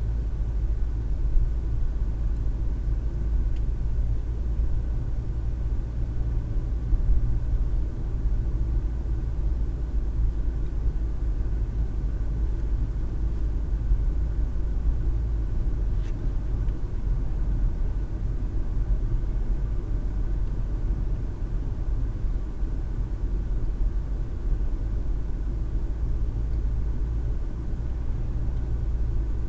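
Car driving along the road, heard from inside the cabin: a steady low rumble of tyre and engine noise.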